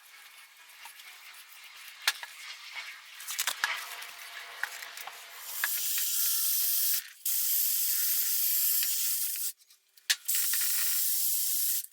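Scattered small clicks and scrapes of metal parts being handled, then from about halfway a loud, steady pressurized spray hissing, broken twice by short gaps.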